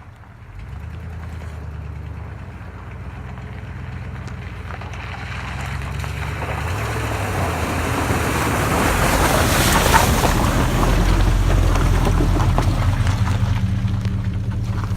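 Vehicle engine running while driving on a rough dirt road, with tyre and road noise building to a peak around ten seconds in. The engine note steps to a different pitch about halfway.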